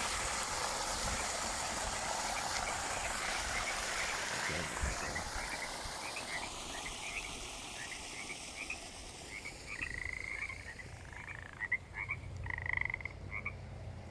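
Chorus of frogs chirping in short, quick, repeated calls, over the steady rush of a small waterfall. The water noise fades away in the first half, leaving the frog calls clearer and louder near the end.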